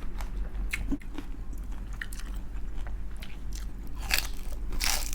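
Close-up crunching and chewing of crispy fried chicken skin: a scatter of short crackly crunches, with two louder bites near the end.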